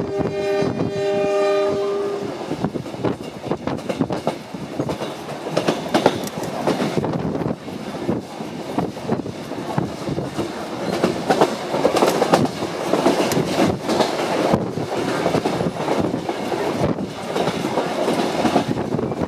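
Kuranda Scenic Railway diesel train's horn sounding one steady blast of about two seconds at the start, the warning given for a level crossing. It is followed by the train running along the line, its wheels clacking over the rail joints.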